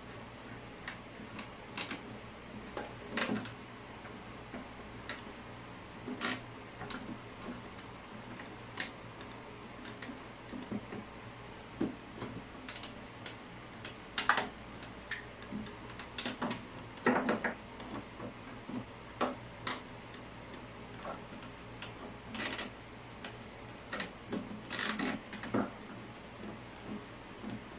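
Irregular light clicks and taps of hand tools and metal or plastic plumbing fittings being handled and fitted, at uneven intervals with a few louder knocks.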